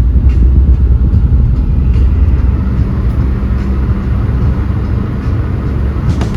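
Road and engine noise of a Suzuki Alto Works (HA36S) heard from inside the cabin while driving: a loud, steady low rumble.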